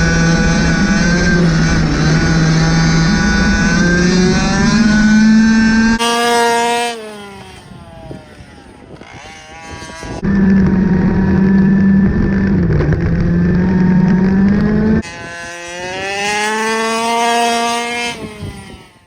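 Rovan RF5 1/5-scale RC rally car's 36cc two-stroke single-cylinder petrol engine running at high revs. The note falls as it eases off about six seconds in and climbs again as it accelerates in the last few seconds. The sound changes abruptly several times and stops dead at the end.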